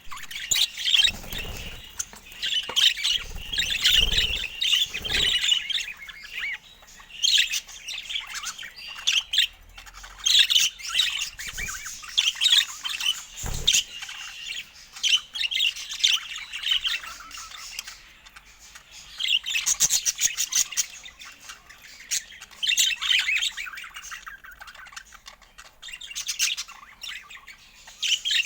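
Budgerigars chattering and warbling in fast bursts with short pauses between, with a few soft low thuds in the first seconds and a single knock about halfway through.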